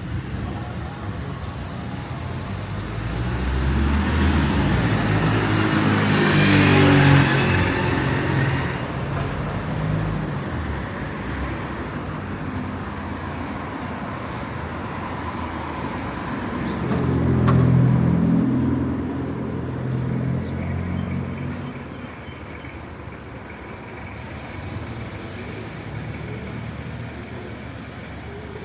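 Street traffic: two motor vehicles drive past one after the other, each rising and fading, the first loudest about a quarter of the way in and the second a little past the middle, over a steady background of town street noise.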